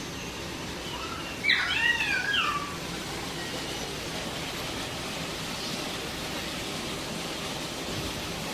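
A bird calls about a second and a half in: a burst of several quick, warbling notes that swoop and fall, lasting about a second. Under it a steady hiss of background noise runs throughout.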